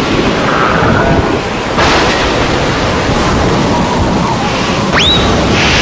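Hurricane storm noise: a loud, steady rush of wind and rain, surging about two seconds in and again near the end, with a short rising whistle about five seconds in.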